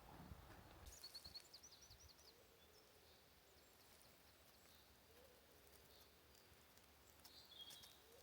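Faint forest ambience with a few bird calls: a quick run of about five high chirps about a second in, and another short call near the end.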